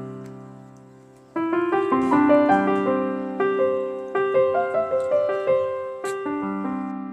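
Background piano music: one chord dies away, then a new slow phrase of single melody notes over sustained lower notes begins about a second and a half in and fades out near the end.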